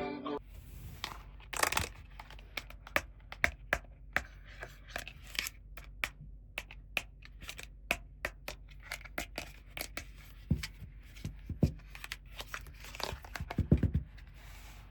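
Plastic toy packaging being opened by hand: crinkling and tearing, with many small sharp clicks and taps of plastic pieces, and the loudest cluster near the end.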